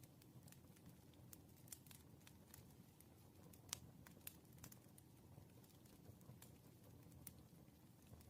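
Faint wood fire crackling: irregular sharp pops and snaps over a soft low rumble of burning logs, with the loudest pop a little past the middle.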